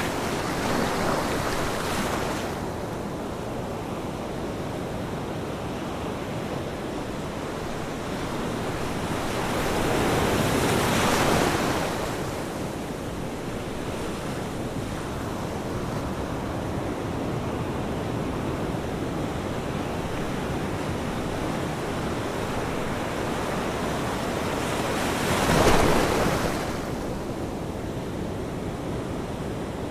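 Ocean waves breaking on a shore: a steady wash of surf with three waves rising louder, one near the start, a longer one about ten seconds in, and the loudest about twenty-six seconds in.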